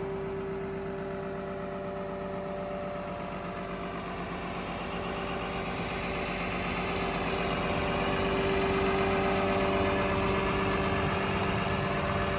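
Komatsu D61PXi-24 bulldozer's diesel engine idling steadily with a constant hum, growing somewhat louder about halfway through.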